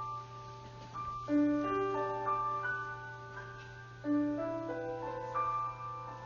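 Piano playing a slow introduction, single notes and chords struck and left to ring, over a steady low hum.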